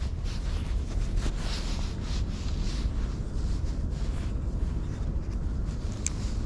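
Wind buffeting the microphone in a steady low rumble, with faint rustling and a brief high squeak near the end.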